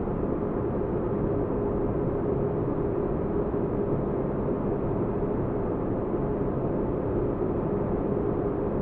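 Sci-fi spaceship interior ambience: a steady deep-bass white-noise bed with a constant mid-pitched hum, unchanging throughout.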